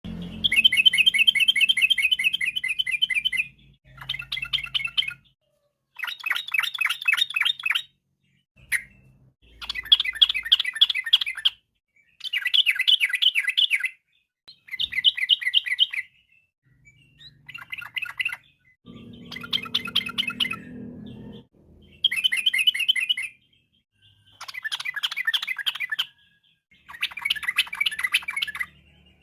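Yellow-vented bulbul (trucukan) singing: repeated phrases of rapid, rolling chattering notes, each a second or two long with short pauses between them.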